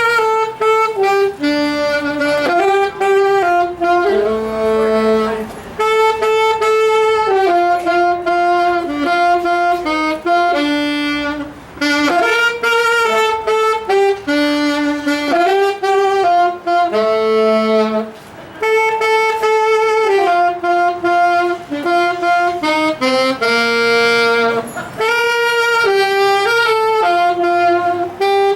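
Small saxophone-led wind ensemble playing a Christmas tune in several-part harmony, in phrases with two brief breaks.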